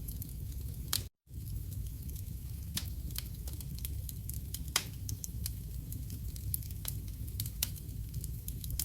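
Wood fire crackling, with irregular sharp pops and snaps over a steady low rushing background. The sound cuts out completely for a split second about a second in.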